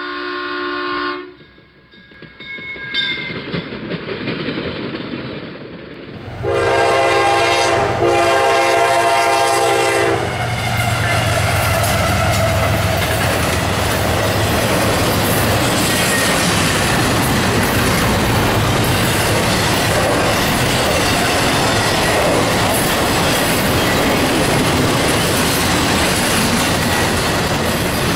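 A freight locomotive's multi-chime air horn sounds for about four seconds; then the CSX double-stack freight train rolls past close by, a steady rumble and clatter of steel wheels on rail as the well cars go by. A short chord of horn-like tones from the title card ends about a second in.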